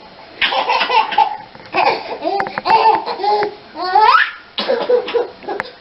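A person laughing in repeated short bursts, with a rising squeal about four seconds in.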